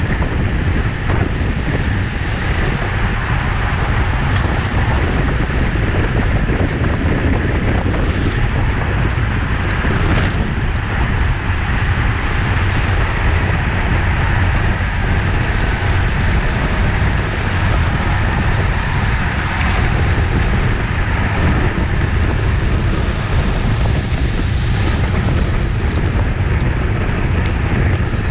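Wind buffeting the microphone of a bike-mounted camera at racing speed, heard as a loud, steady low rumble, with a few brief clicks scattered through it.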